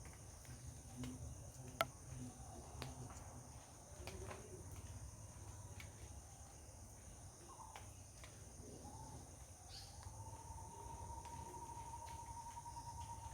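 Steady high-pitched insect chorus with a low background rumble, broken by scattered irregular sharp taps, the loudest about two seconds in. A long, steady, slightly wavering tone joins about ten seconds in.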